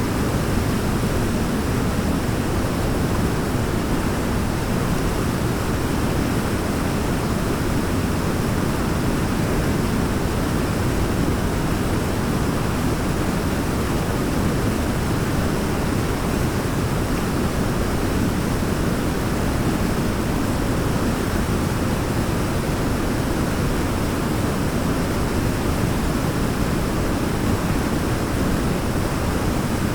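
Waterfall pouring in a steady rush of water, deep and even, with no change or pause.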